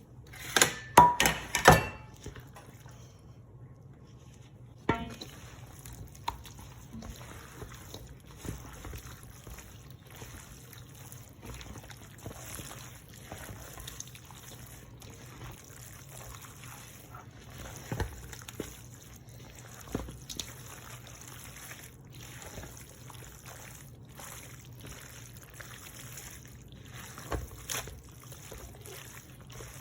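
Thick, wet casserole mixture (cheese sauce with chicken, olives and squash noodles) being poured and worked in a dish, with a burst of sharp utensil clicks against the dish in the first two seconds and a few single clicks later.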